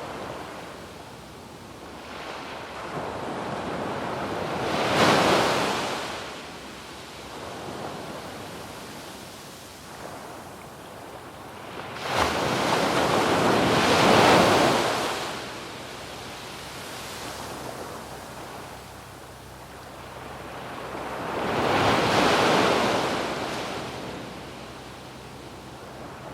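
Ocean waves breaking and washing up a sandy beach, the surf swelling three times, at roughly eight-second intervals, and falling back to a steady wash between.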